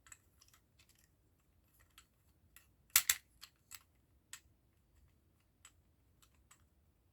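Small plastic model-kit parts clicking and tapping as they are handled and fitted together, with a louder double click about three seconds in.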